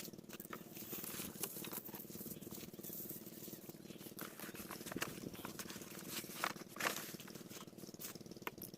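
Diesel engine of an irrigation water pump set running steadily, with scattered light clicks and taps over it.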